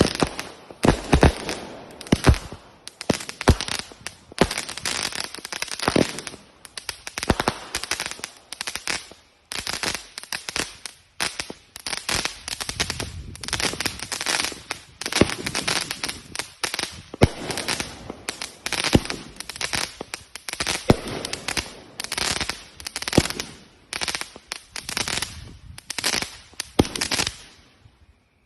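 Fireworks going off in a rapid, unbroken string of bangs, each followed by crackling, several a second.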